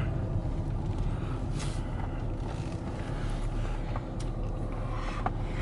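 Car engine running, heard from inside the cabin as a steady low rumble, with a few faint clicks.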